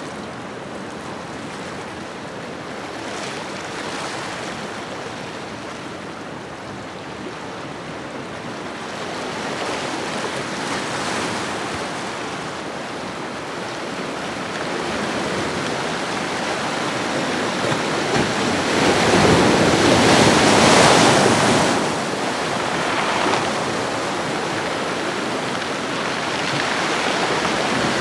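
Ocean waves washing onto a shore: a continuous surf hiss that swells and fades as each wave breaks, the biggest wave cresting about two-thirds of the way through.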